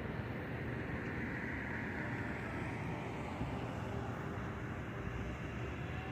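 Street traffic noise: a steady low rumble, with the tyre hiss of a passing vehicle swelling and fading in the first couple of seconds.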